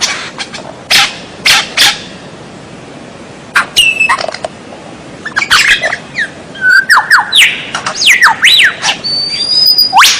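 Songbird singing: a few short harsh, rasping notes, then a fast run of whistled notes sliding up and down, ending on a held high whistle.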